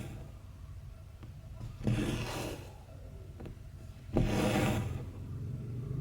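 Embroidery thread pulled through cross stitch fabric, a short rasping scrape twice, each starting sharply, with a faint tick of the needle between them.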